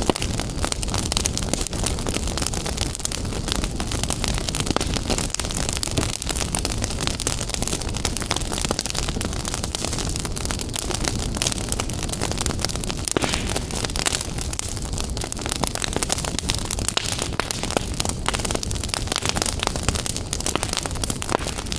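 Fire in a fireplace crackling, with many small pops scattered throughout over a steady low rumble and hiss.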